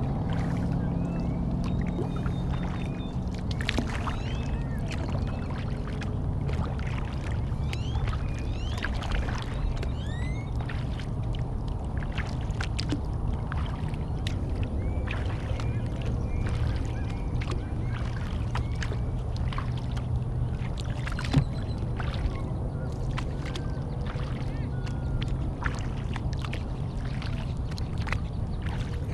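Kayak paddling on a lake: water dripping and splashing from paddle strokes over a steady low rumble, with short rising bird chirps thickest a third of the way in.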